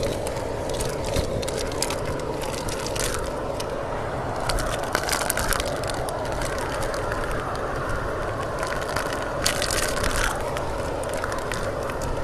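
Strong typhoon wind blowing steadily, a constant rushing noise with scattered crackles.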